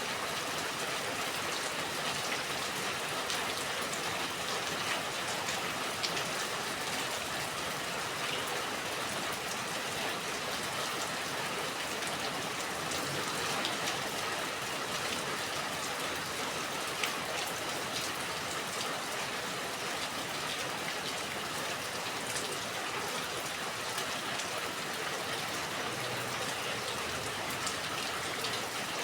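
Steady rain falling, with many close drops pattering on a surface in a constant hiss.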